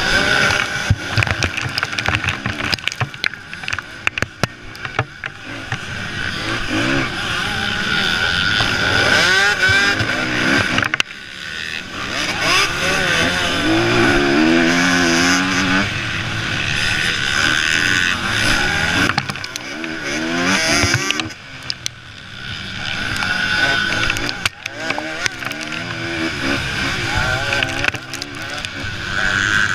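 Motocross bikes racing, engines revving up and down through the gears, the sound swelling and fading as riders pass.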